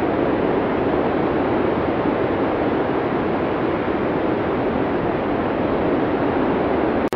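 Blizzard wind sound effect: a steady, dense rush of storm wind, cutting out for an instant just before the end.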